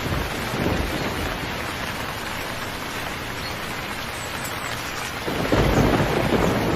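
Steady heavy rain with a rumble of thunder that swells about five and a half seconds in.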